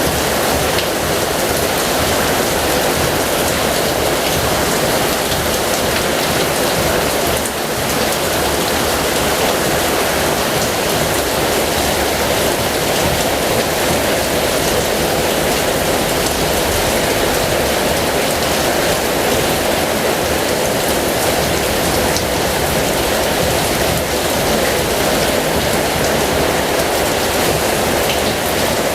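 Heavy rain falling steadily, an even rushing patter with no break.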